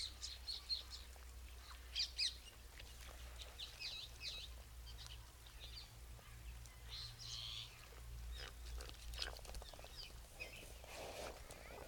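Birds chirping outdoors: many short, high calls scattered irregularly, with a few louder chirps about two seconds in, over a steady low hum.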